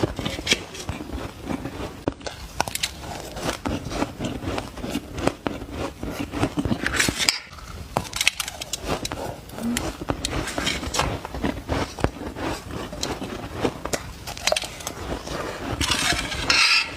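Shaved ice being bitten and chewed close to the microphone: a dense run of crisp crunches and crackles, with a brief gap about seven seconds in.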